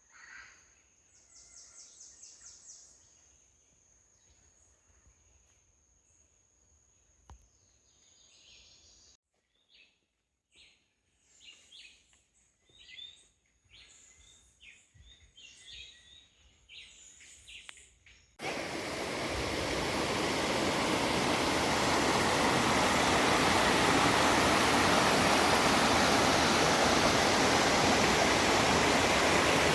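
Quiet rainforest sounds: a steady high thin whine with scattered bird chirps and calls. About two-thirds of the way through, the sound cuts suddenly to the loud, steady rush of a waterfall.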